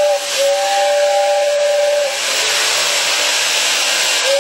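Tin toy train's steam sound effect: a two-note whistle that stops just after the start and blows again for about a second and a half, over a steady hiss.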